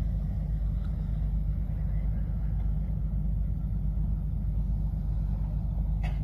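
Steady low rumble of a boat engine running at an even pace.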